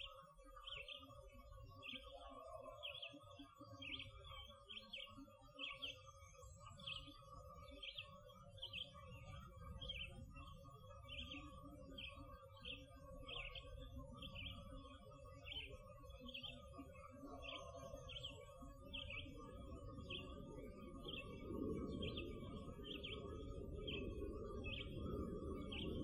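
A songbird repeats a short high chirp about once a second, over a faint steady hum and a low rumble. The rumble grows louder in the last few seconds, and the recordist takes it for Bigfoot infrasound.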